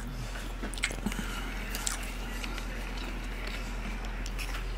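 A person chewing a mouthful of lasagna, with scattered short clicks of the mouth and fork over a quiet steady low hum.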